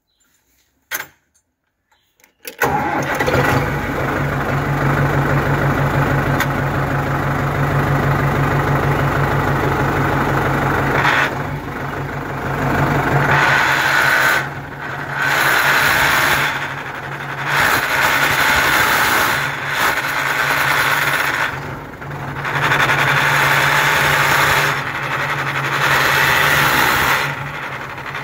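Solis 75 tractor running with the transmission noise that remains after its bent pilot shaft was replaced, the cause still unknown. The sound cuts in abruptly about two and a half seconds in, and in the second half its level dips and comes back every two to three seconds.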